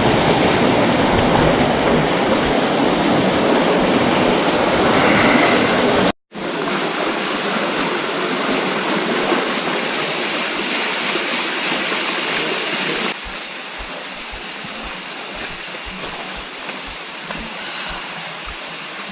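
Rushing water of a canyon stream, a steady loud rush that cuts out for a moment about six seconds in, then comes back and drops quieter a little past halfway.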